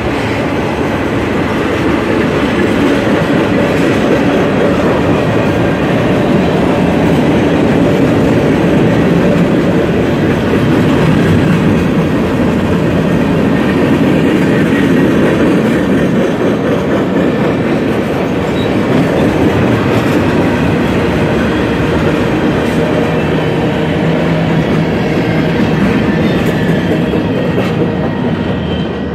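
Freight train of tank cars, container cars and a covered hopper rolling steadily past, a continuous rumble of wheels on the rails. It fades as the last car goes by near the end.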